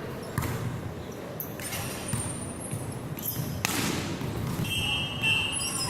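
Indoor basketball game: a basketball bouncing on a hardwood court with several sharp thuds, short high sneaker squeaks and players' distant shouts, all ringing in a large gym.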